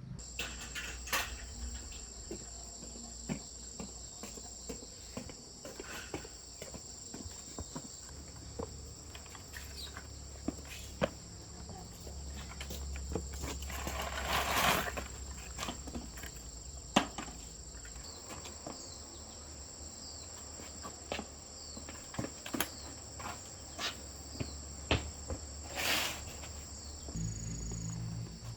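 Insect chorus, a steady high trill, with scattered clicks and knocks and two louder rustling bursts, one about halfway through and one near the end.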